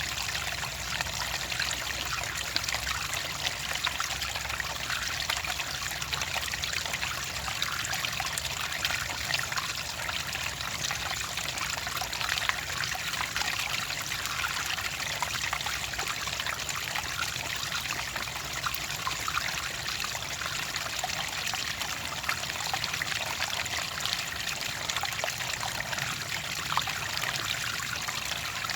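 Water trickling and splashing steadily, like a small stream or a trickle over stones, with no change in flow.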